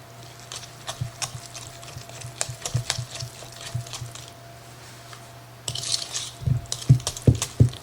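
A utensil stirring thick corn muffin mix into melted butter in a bowl: irregular scraping and clicking against the bowl, with a few louder knocks near the end.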